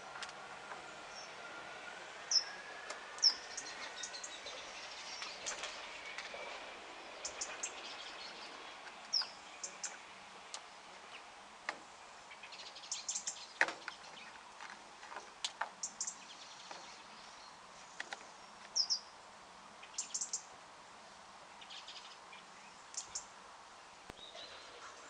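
Small birds chirping in short, high calls, the loudest a few seconds in, with scattered light clicks and knocks as plastic guttering and downpipe fittings are handled and pushed together.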